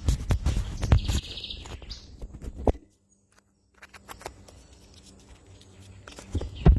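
Knocks, taps and rubbing from a microphone or phone being handled, dense for the first few seconds, then the sound cuts out briefly and comes back with only scattered clicks. A short high chirping trill sounds about a second in and again near the end.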